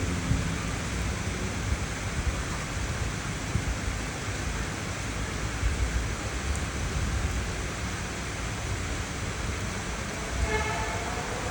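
Steady rain with a low rumble underneath. About a second before the end, a rising engine-like whine comes in.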